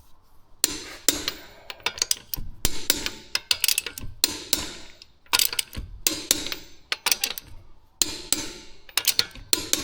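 Irregular sharp knocks and clinks, one to three a second, some ringing briefly.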